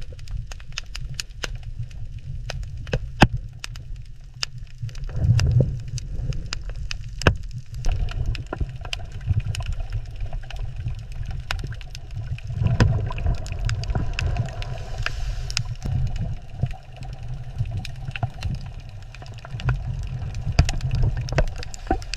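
Underwater ambience: a low, surging rumble of moving water with scattered sharp clicks and crackles.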